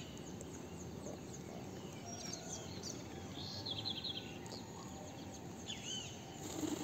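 Birds chirping: scattered short, curving calls and a brief rapid trill about halfway through, faint over a steady low background hiss.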